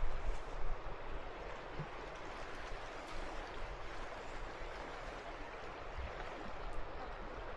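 Steady rushing hiss of a fast-flowing mountain stream, with an uneven low rumble underneath.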